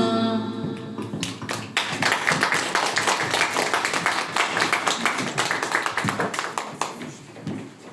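Audience applauding. A crowd's clapping builds about a second in, holds, and thins out near the end.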